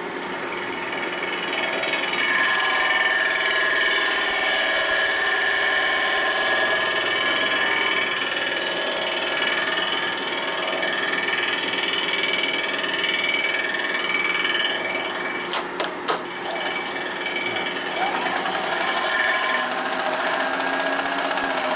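Milling cutter taking a flattening cut through chrome-plated metal: a steady machining whine with several shifting, ringing tones. About 15 seconds in the cut breaks off with a couple of sharp knocks, then resumes.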